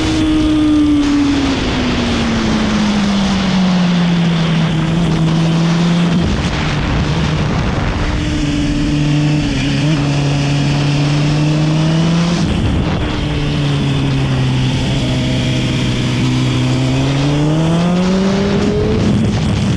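Motorcycle engine running through a go-kart track's corners. Its note drops as it slows in the first few seconds, holds low with two brief breaks, then climbs near the end as it accelerates, over a steady rushing noise.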